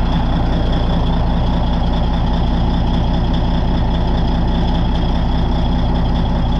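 Caterpillar D8N dozer's six-cylinder diesel engine idling steadily, a deep even rumble with a faint high whine over it.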